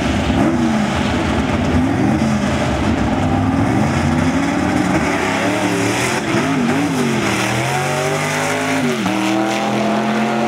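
A classic drag car's engine revving up and down on the starting line, then launching about six seconds in and accelerating hard, its pitch climbing, dropping at a gear shift near nine seconds, and climbing again.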